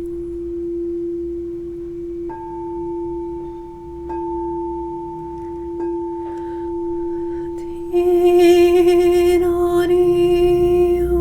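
Steady ringing tones: a low tone held throughout, joined about two seconds in by a higher tone after a light tick. About eight seconds in, a louder cluster of high, wavering tones comes in.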